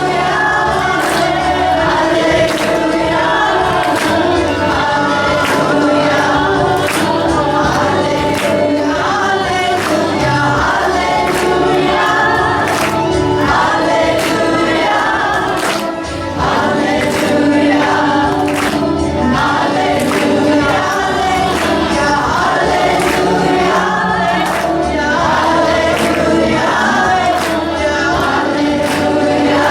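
A group of voices singing together over musical accompaniment with a steady percussive beat, a devotional chant sung as a choir. The sound dips briefly about halfway through.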